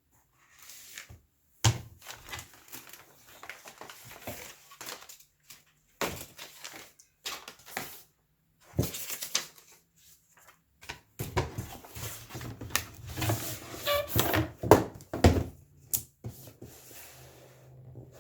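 Tablet packaging being handled: scattered rustles, scrapes and knocks of box and wrapping, busiest in the last third as the tablet is lifted out.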